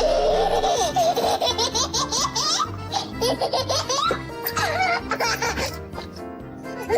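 A baby laughing in repeated giggles and high squeals, over background music.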